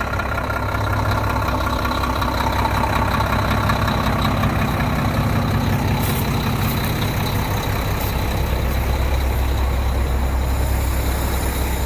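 Heavy diesel engine running steadily, its low hum shifting lower about halfway through.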